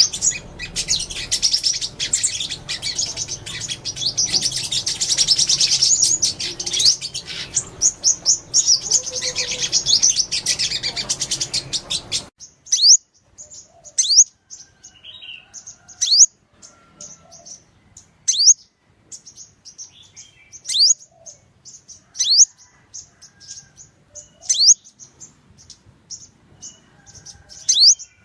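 Sunbirds calling with high, quick chirps. At first it is a dense chorus over a background hiss. About twelve seconds in it cuts abruptly to a cleaner recording: short high chips, with a sharp downward-sliding call about every two seconds.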